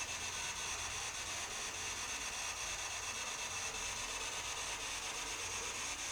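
Steady hiss of radio static from a spirit box sweeping through radio stations, with a low hum beneath it.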